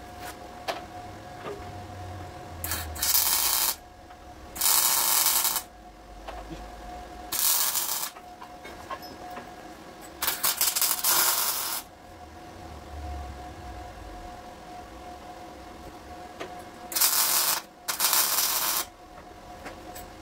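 About six bursts of loud hissing, each roughly half a second to a second and a half long, with a faint steady tone running underneath.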